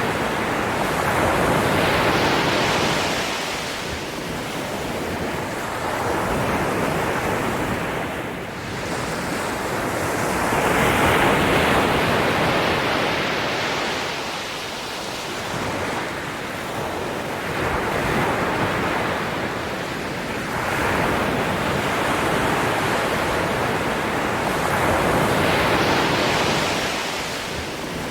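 Ocean waves breaking, a wash of surf that swells and ebbs in repeated surges about every four to five seconds.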